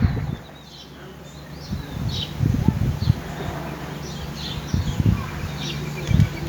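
Small birds chirping and twittering in quick, repeated calls, with a faint, fast trill joining near the end.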